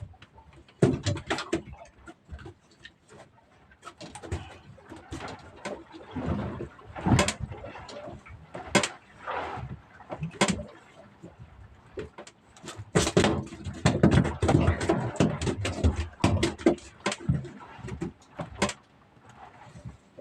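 Irregular knocks, clicks and clatter with short rustles, heaviest in a cluster in the second half, like fishing gear being handled in a small boat.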